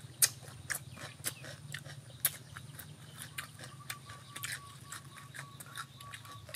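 Wet mouth smacking and chewing of people eating boiled beef tail by hand: irregular sharp smacks and clicks, several a second, the sharpest near the start and about two seconds in.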